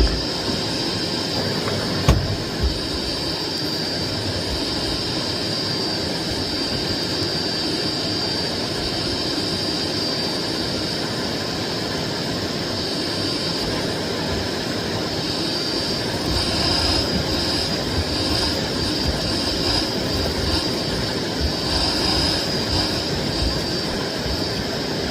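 Miele Blizzard CX1 bagless cylinder vacuum cleaner running steadily, with a high motor whine that wavers in the second half, and a knock about two seconds in.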